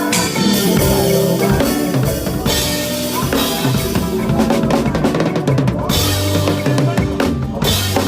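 Drum kit played in a makossa groove over backing music, with bass drum, snare and rim strokes over held pitched instruments.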